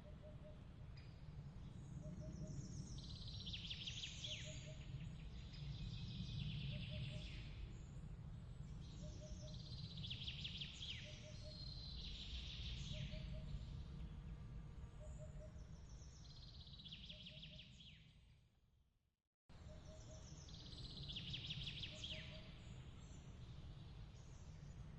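Layered ambience of bird chirps: bursts of quick high chattering calls every two or three seconds, with a faint short pip repeating about once a second, over a low steady rumble. Near the end everything fades to silence, then starts again abruptly as the track loops.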